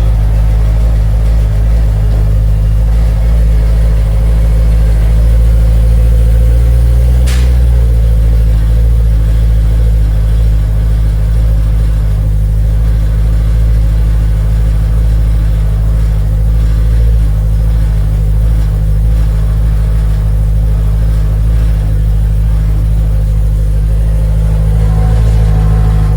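2011 BMW M3's 4.0-litre V8 idling steadily through a newly fitted M Performance exhaust, a deep, even note with no revving. There is one brief tick about seven seconds in.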